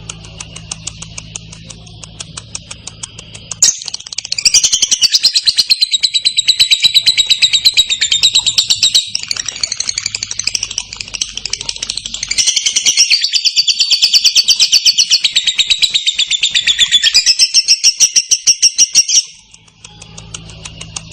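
Female lovebird giving its long ngekek song: a very rapid, continuous chattering trill. It is softer for the first few seconds, turns loud about four seconds in, runs unbroken for some fifteen seconds and stops abruptly near the end.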